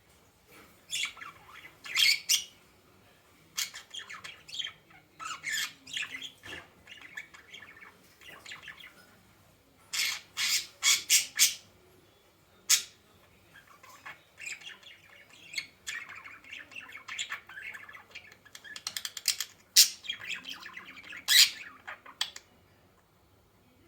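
A bird giving short, harsh calls in quick runs, with brief pauses between the runs.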